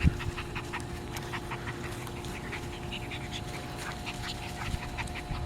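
Puppies panting and scuffling in play, with many small irregular clicks and rustles.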